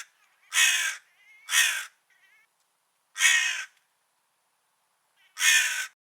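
Crow cawing: four harsh caws of about half a second each, at uneven gaps, with a couple of faint shorter calls between them.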